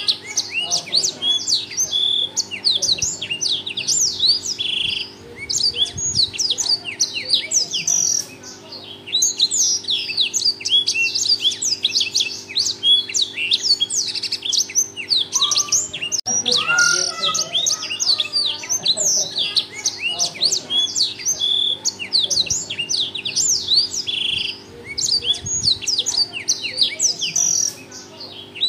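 Black-throated canary (blackthroat) singing a long, fast, continuous song of rapid high chirps and trills, broken by a few short pauses.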